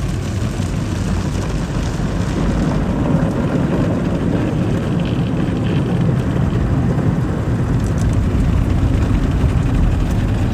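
Automatic car wash machinery running: a steady, loud rushing noise over a low rumble.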